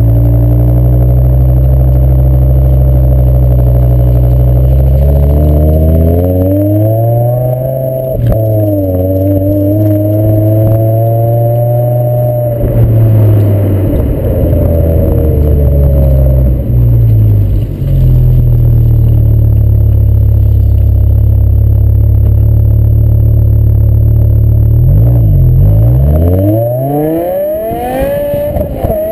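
BMW M6 engine running through its stock exhaust, loud. The note holds steady for stretches and rises and falls with engine speed several times, climbing again near the end.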